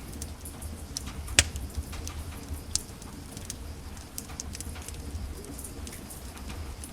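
Wood fire in a fireplace crackling: irregular snaps and pops over a low steady rumble, with the sharpest snap about a second and a half in and another near three seconds.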